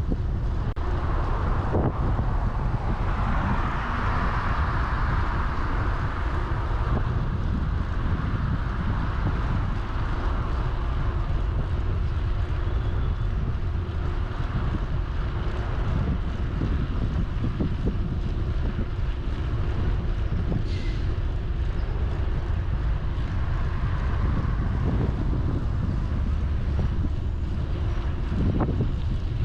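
Wind rumbling steadily on the microphone of a moving bicycle, with road and tyre noise beneath.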